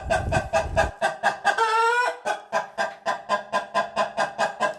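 Chicken clucking fast and steadily, about six clucks a second, with one longer drawn-out call just under two seconds in.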